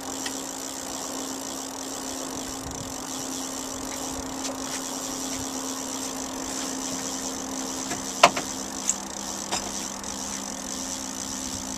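Boat motor running steadily at trolling speed, a level hum. A sharp click or knock about 8 seconds in, followed by a couple of lighter ones.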